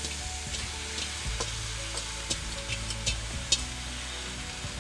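Soaked puffed rice sizzling in hot oil with fried onions in a pan. A wooden spatula stirs and turns it, with scattered light scrapes and taps against the pan.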